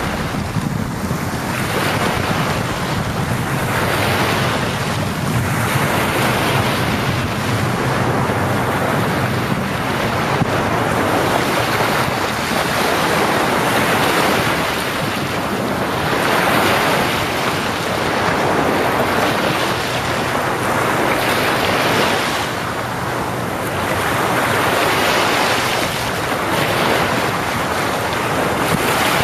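Sea waves breaking and washing on a beach, swelling and easing every few seconds, with wind buffeting the microphone.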